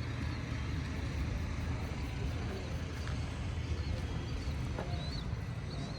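Low, steady rumble of a car engine running, with a few faint bird chirps near the end.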